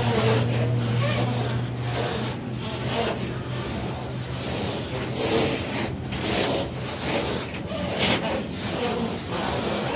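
Freight train of open gondola wagons rolling past close by: wheels rumbling on the rails with irregular clatters and knocks over rail joints. A low steady hum fades out about seven seconds in.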